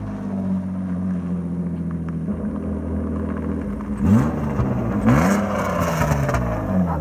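BMW E34 525i's inline-six running with no exhaust system fitted. It holds a steady drone for about four seconds, then is revved up and down several times.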